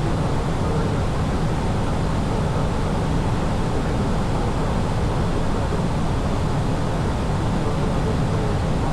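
Steady, even rumble of an airliner in flight, the engine and airflow noise as heard inside the cabin.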